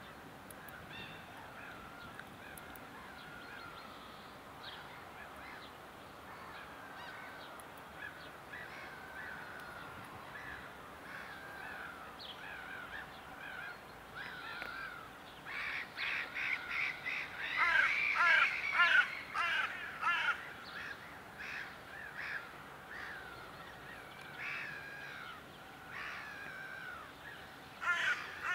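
Birds calling: a run of short, harsh calls throughout, with many overlapping and loudest a little past the middle. A faint steady tone lies underneath.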